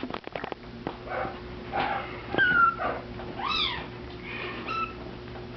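Bengal kitten mewing: about six short, high-pitched mews, some rising and falling in pitch, the loudest near the middle. A few faint clicks at the very start.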